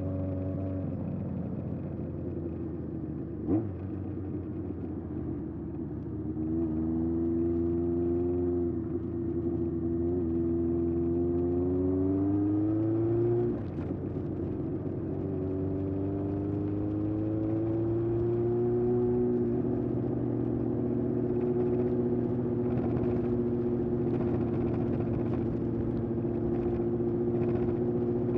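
Air-cooled inline-four of a 1981 Honda CB750F running through a vintage Yoshimura exhaust while riding: the note climbs under acceleration, drops at a gear change about 13 seconds in, climbs again, then holds steady at cruising speed. A short sharp knock sounds about three and a half seconds in.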